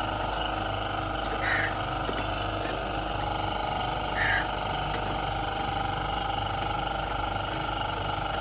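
A machine runs with a steady hum made of several constant tones. Two short, higher chirps come about a second and a half in and again about three seconds later.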